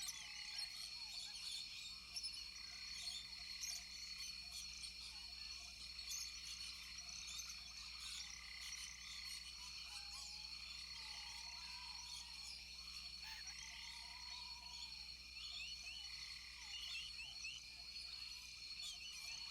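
Rainforest frog chorus: many frogs calling with short, quick chirps over a bed of steady high-pitched trilling, and a few lower, drawn-out calls in the middle.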